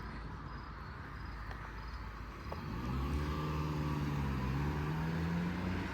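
A car's engine hum swelling in about two and a half seconds in and holding as it nears, its pitch rising slowly.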